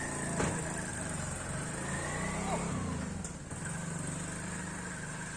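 A motor vehicle engine running steadily, with a sharp click about half a second in.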